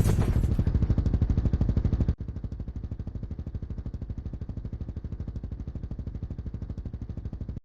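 Motorcycle engine idling with a rapid, even putt-putt of exhaust pulses, about ten a second, settling just after a rev. About two seconds in, the sound drops suddenly to a quieter level.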